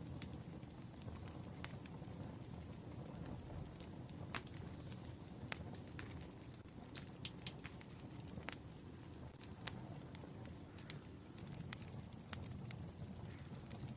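Wood fire crackling: irregular sharp pops and snaps over a low, steady rumble of burning logs, with a few louder pops about seven seconds in.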